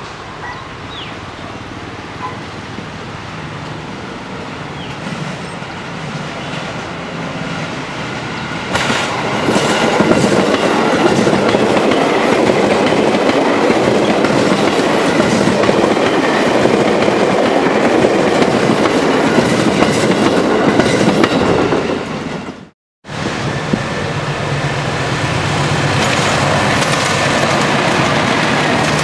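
Former JR East 205-series electric commuter train approaching, getting louder, then passing close by at speed, its wheels running over the rails for more than ten seconds. The sound cuts out abruptly for a moment about three quarters of the way in, then a steadier, quieter train sound carries on.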